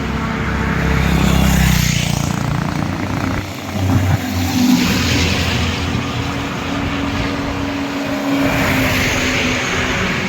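Highway traffic passing close by: several vehicles go past one after another, with engine rumble and rushing tyre noise. A heavy low engine rumble is loudest in the first two seconds.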